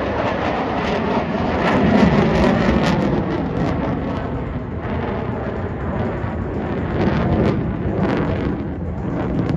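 Loud jet noise from an F-35B Lightning II's F135 engine flying overhead, a rushing noise with a ragged crackle through it, easing off a little after about four seconds.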